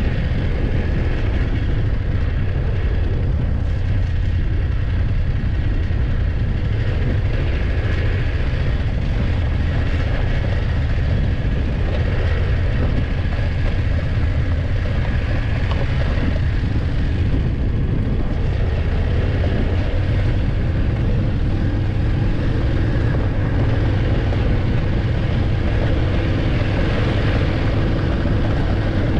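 BMW F850GS motorcycle's parallel-twin engine running steadily while riding along, with no change in pace.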